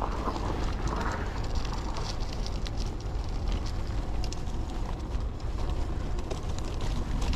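Bicycle rolling fast downhill over rough ground, the bike clattering and rattling in many short clicks, over a steady low rumble of wind buffeting the microphone.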